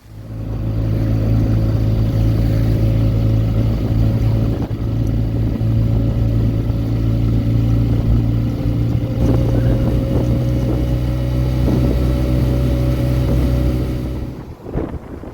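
Motorbike engine running at a steady pace, one even drone that starts suddenly and falls away about a second before the end.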